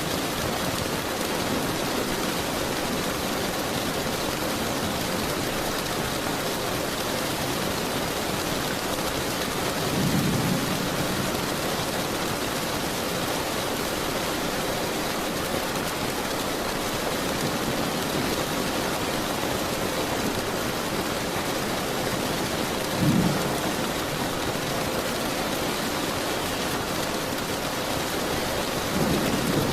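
Steady rain with low thunder rumbles: one about ten seconds in, a short sharper clap a little past twenty seconds, and another rumble starting near the end.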